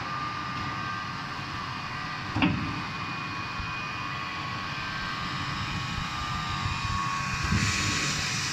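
Hot-welding machinery for filter bags running steadily, a mechanical hum with a steady whine, and one sharp knock about two and a half seconds in. A hiss grows louder near the end.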